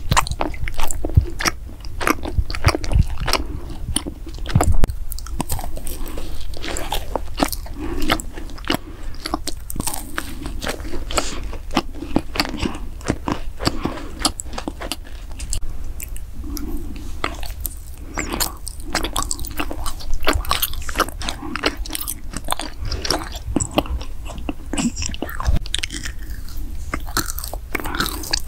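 Close-miked mouth chewing and biting, lips closed, a dense irregular run of wet clicks and crunches.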